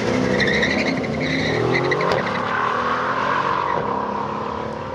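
Cars accelerating hard in a drag race, the engines' pitch rising, from a Brabus 700 Mercedes-AMG E63 S with its 4.0-litre biturbo V8 against a Seat Leon FR. A short sharp click comes about two seconds in.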